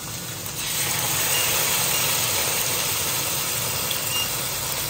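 Marinated salmon fillets sizzling in hot oil in a stainless steel frying pan. The sizzle swells about half a second in, as a second fillet goes into the pan, and then holds steady.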